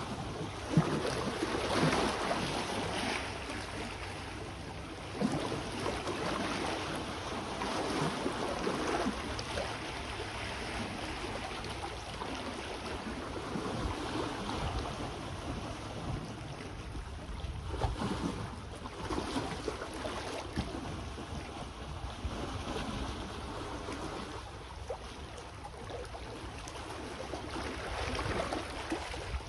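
Small sea waves washing onto the shore, the wash swelling and falling away every few seconds, with wind buffeting the microphone as a low rumble underneath.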